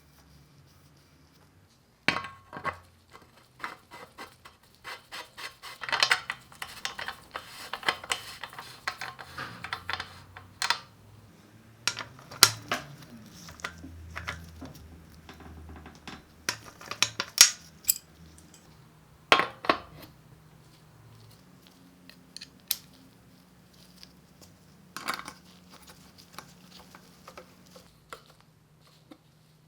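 Small metal bicycle parts clinking and clattering as they are handled: a dense run of sharp clinks a few seconds in, then scattered single clinks and knocks.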